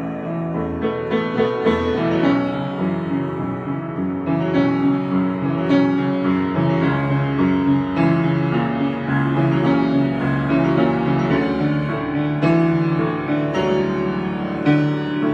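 Solo piano improvisation: flowing chords and melody notes that change every second or so.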